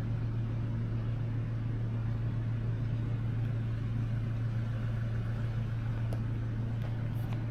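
Komatsu 785 HD haul truck's diesel engine running steadily, a deep even hum with no change in speed.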